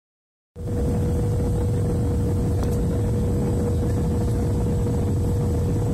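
Boeing airliner cabin noise during descent: a steady, loud rush of engines and airflow with a steady hum running through it, starting about half a second in.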